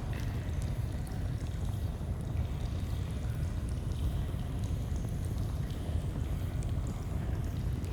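Steady low rush of a flowing stream, with faint scattered crackles of a campfire.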